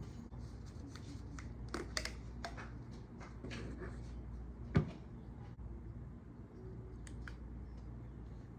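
Scattered light clicks and rustles of things being handled, with one sharper knock about five seconds in, over a steady low hum.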